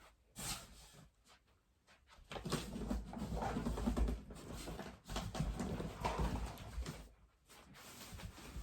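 A cardboard box and its contents being handled: irregular rustling, scraping and knocking that starts about two seconds in, drops out briefly about seven seconds in, and resumes near the end.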